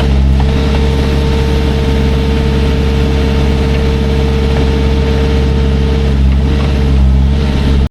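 A large engine running steadily at a constant speed.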